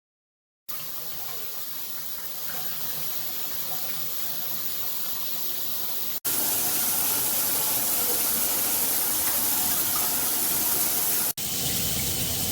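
Water spraying from a 9-inch rain showerhead, a steady rushing hiss that starts about a second in. It breaks off abruptly twice and comes back louder after the first break.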